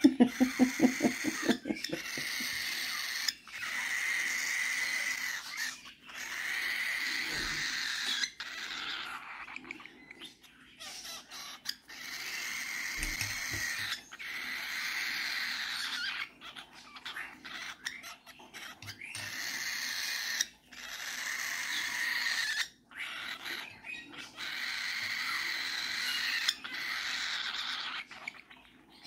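A hand-fed young bird giving repeated raspy begging calls, about ten in a row, each a second or two long, as it asks for food.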